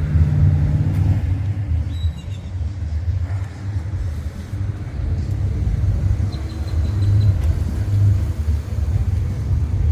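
A car engine idling with a deep, steady low rumble.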